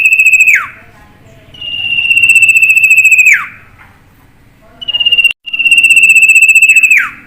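A bird's call given three times: a long, rapid buzzing trill held on one high pitch for about two seconds, each ending in a quick downward slide.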